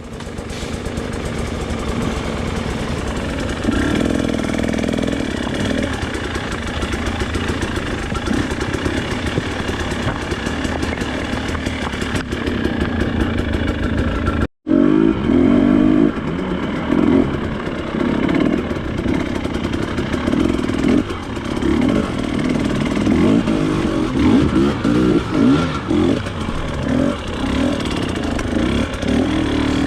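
Off-road trail motorcycle engine running and revving up and down while riding. The sound breaks off for a moment about halfway, and the throttle rises and falls more strongly after that.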